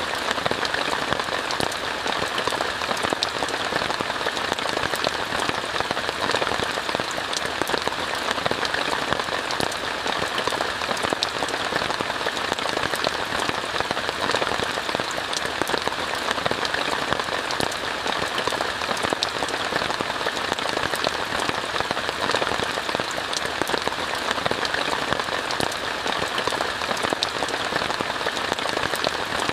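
Steady heavy rain falling on a tent, a dense even hiss with many close individual drop taps, unchanging throughout.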